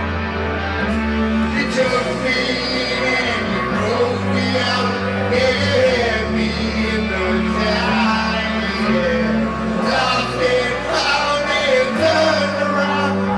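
Live rock band playing a power ballad in a stadium, recorded from the audience: a male lead voice over held bass notes, electric guitar, keyboards and steady drum hits.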